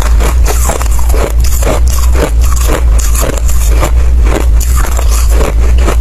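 Ice being bitten and chewed close to the microphone: a quick, continuous run of loud crunches, about two to three a second, over a steady low rumble.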